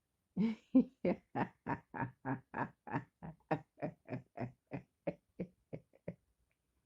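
A person laughing in a long run of rhythmic 'ha-ha' bursts, about three to four a second, loud at first and slowly fading out.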